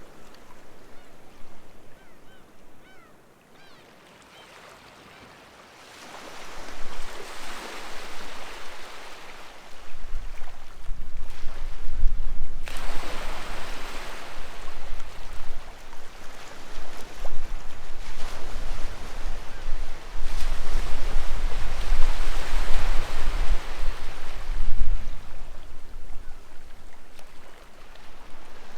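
Sea waves breaking and washing on the shore in repeated surges that swell and fall away; one surge comes in suddenly a little under halfway through and is among the loudest. Faint gull calls in the first few seconds, while the water is quietest.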